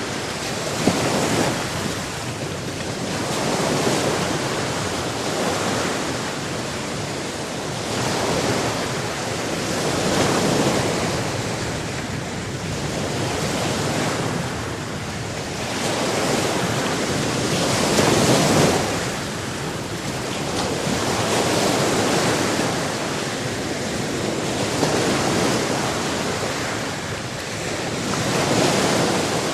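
Sea waves breaking and washing ashore, the surf swelling and ebbing every few seconds in a steady rush of noise.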